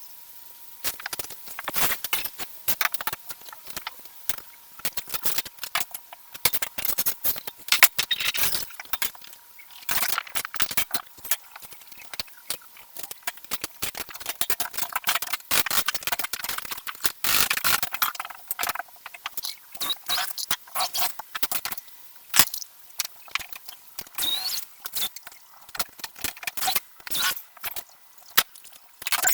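Irregular clicks, rattles and short scrapes of hard objects being handled and moved about, coming in uneven clusters.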